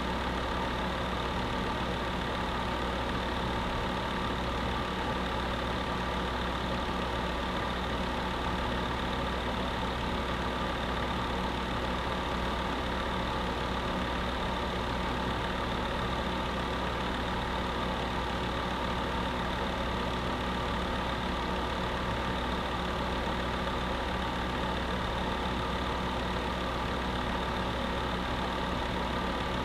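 Space heater running steadily: an even fan whir with several constant hum tones underneath, never changing.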